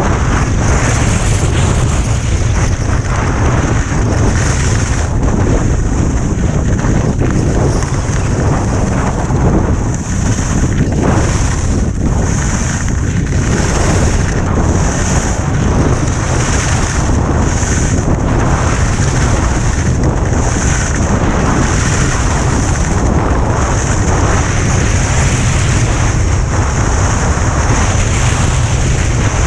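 Heavy wind buffeting a GoPro's microphone during a fast downhill snow run, a loud steady low rumble with a high hiss that swells and fades every second or two.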